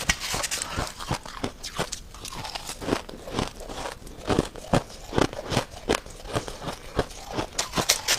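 Freezer frost being bitten and chewed: a run of irregular sharp crunches, a few each second.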